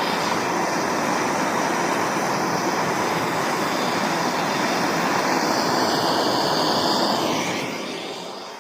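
Gas torch flame burning with a steady rushing hiss while heating a brass piece to a bronze-copper colour. The flame dies away over the last second.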